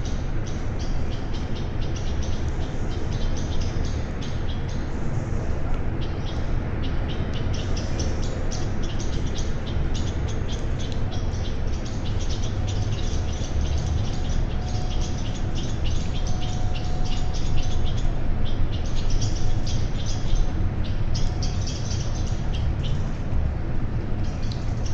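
Many small birds chirping rapidly and continuously in high, short notes, over a steady low rumble.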